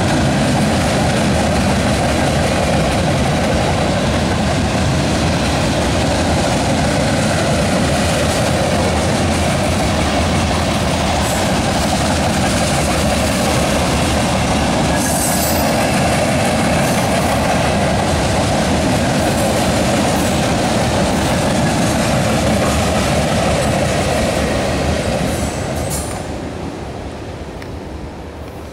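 Freight cars of a mixed freight train (boxcars and covered hoppers) rolling across a steel girder railroad bridge, a steady heavy rumble of wheels on rail with a brief high squeal about halfway through. The sound dies away over the last few seconds as the end of the train passes.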